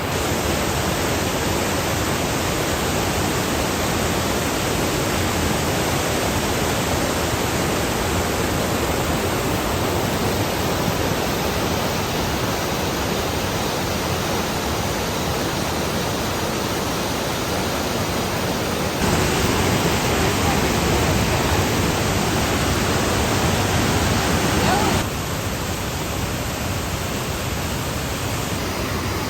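Waterfall rushing: a steady roar of falling water. It gets louder for about six seconds in the last third, starting and stopping suddenly.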